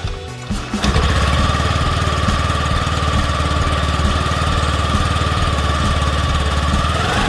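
Honda Activa 125 scooter's single-cylinder engine starting suddenly, then idling steadily with an even, quick firing pulse and a high whine. Its pitch shifts near the end.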